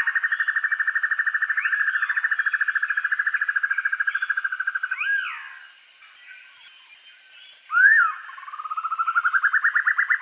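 Banded broadbill giving its long, rapid, evenly pulsed trill, which fades out about five seconds in. After a short pause and a loud swooping note, the trill builds up again. Fainter rising-and-falling whistles sound over it.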